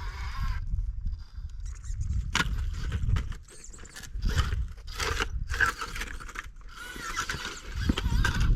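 Wind buffeting the microphone in gusts, over repeated short bursts of scraping and rattling from a radio-controlled rock crawler working over rock.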